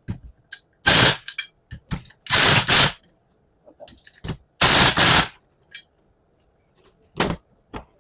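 Pneumatic impact wrench run in four short rattling bursts, each about half a second, with small clicks between. It is tightening the bolts of an AD-9 air dryer as it is reassembled.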